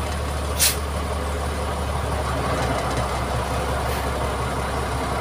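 Mitsubishi MG330 motor grader's diesel engine running steadily with a low hum, and a brief hiss about half a second in.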